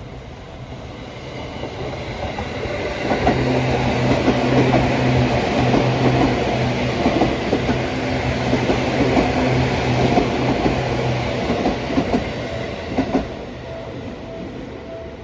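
Electric commuter train running on rails, with wheels clattering over rail joints and a steady low hum. The sound builds up about three seconds in and eases off near the end.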